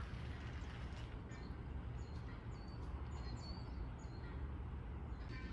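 Outdoor ambience: a steady low rumble with short, high bird chirps scattered through the middle.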